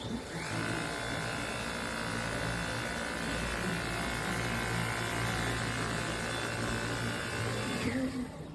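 Dyson V8 cordless stick vacuum switched on and running steadily for about seven seconds with a high motor whine, then switched off near the end.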